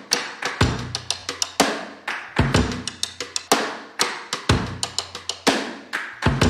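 Drum kit playing a steady beat: a deep kick drum about once a second, with quicker snare and cymbal strokes in between.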